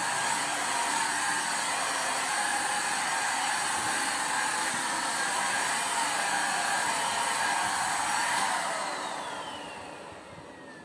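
Corded stick vacuum cleaner running steadily, then switched off about eight seconds in, its motor winding down with a falling whine.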